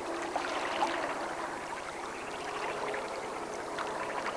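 Water running or splashing in a steady, even wash.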